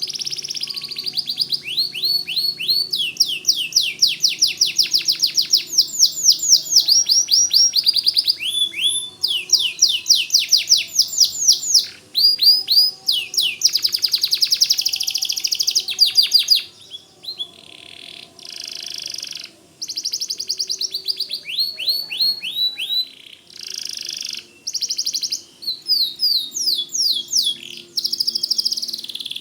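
White domestic canary singing a long, loud song of rapid trills and fast runs of repeated downward-sweeping notes, broken by a few short pauses.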